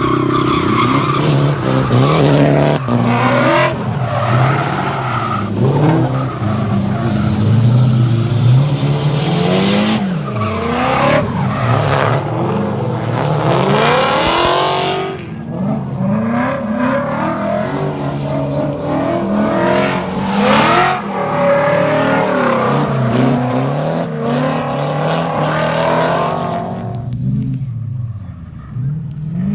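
Drift cars' engines revving up and down again and again as they slide past, the pitch climbing and dropping over a haze of tyre and road noise. It fades down near the end.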